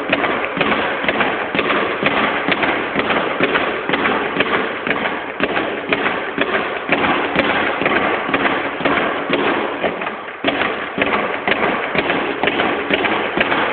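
Speed bag being punched in a fast, steady rhythm of sharp rattling hits, with a brief let-up about ten seconds in.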